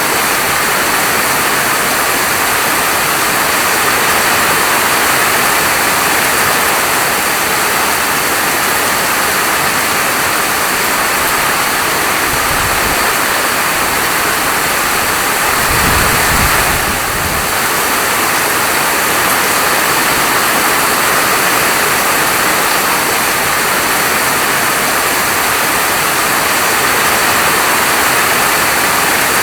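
Steady, heavy rain falling, an even hiss. About halfway through comes a brief low rumble.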